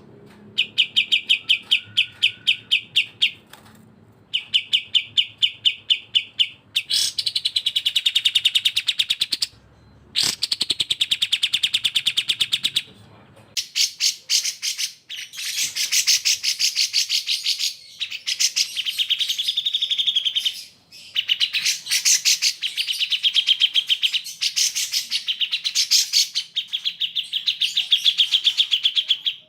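Bulbuls singing: the cucak jenggot (grey-cheeked bulbul) and the kapas tembak, in long, fast trills of rapidly repeated high notes broken by short pauses, growing denser and fuller about a quarter of the way in.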